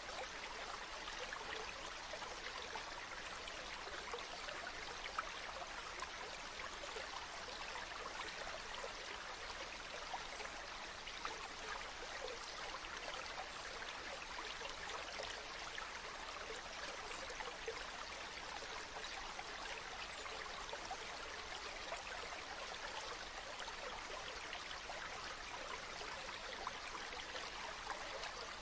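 Small stream of running water babbling and trickling steadily.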